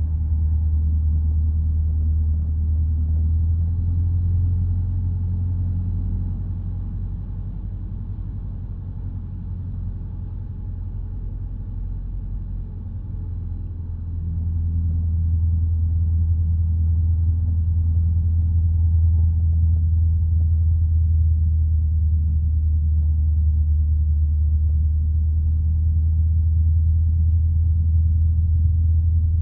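Cockpit drone of a single-engine piston light aircraft's engine and propeller in flight. It eases off for several seconds, then grows louder again about halfway through, as with a change of power in the circuit.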